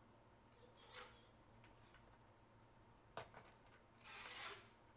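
Faint sliding and rubbing of trading cards being handled, a short slide about a second in and a longer one near the end, with a single soft tap a little past three seconds.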